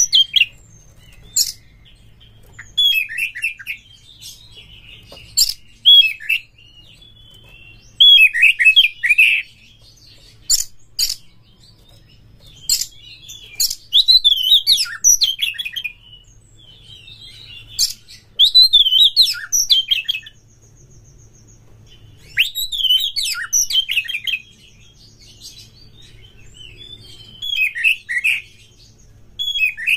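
Oriental magpie-robin (kacer) singing loud, short, varied phrases of fast warbles and sharp clicks, a burst every one to three seconds with brief pauses between.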